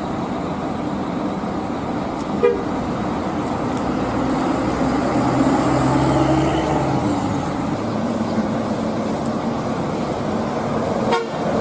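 Steady road traffic noise with a vehicle horn sounding for a few seconds around the middle.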